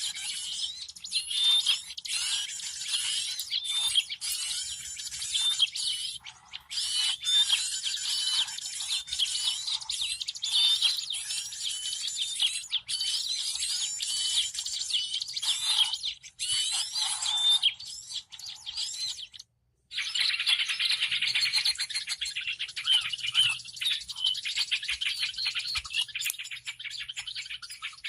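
Bird-lure recording of many small birds chirping and calling at once in a dense, busy chatter. The sound drops out completely for about half a second a little after two-thirds of the way through, then the chatter resumes.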